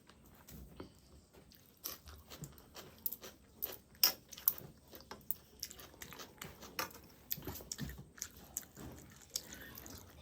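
Close-up eating sounds: chewing and biting with many irregular, wet crunchy clicks as a mouthful of rice and spicy chicken curry is eaten.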